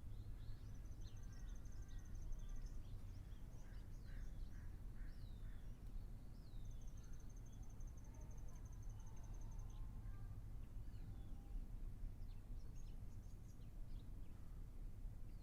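Several wild birds calling: repeated short down-slurred whistles, two long, even, high trills, and scattered lower notes, over a steady low background rumble.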